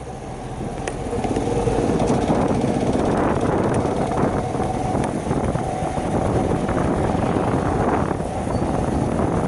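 Wind buffeting the microphone on a moving Shineray 50cc motorcycle, with the small engine's steady hum underneath; it grows louder about two seconds in.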